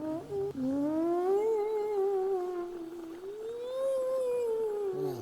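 A long, eerie moaning wail that glides slowly up and down in pitch, swelling twice. It sounds like someone groaning who isn't feeling too good.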